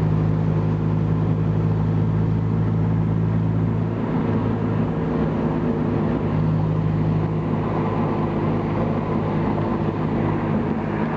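An engine running at a steady speed, giving a loud, even low hum with no revving.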